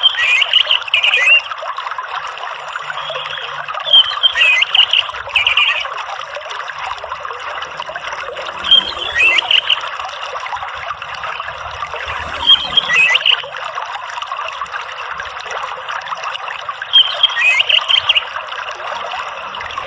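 Orange-headed thrush singing short phrases roughly every four seconds over the steady sound of trickling running water.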